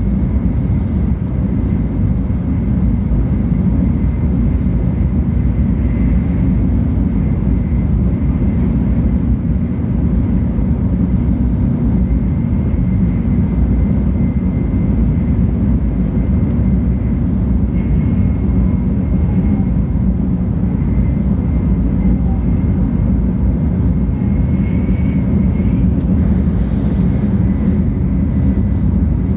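Steady low rumble of a 700 series Shinkansen train running at speed, heard inside the passenger cabin, with a faint high steady whine on top.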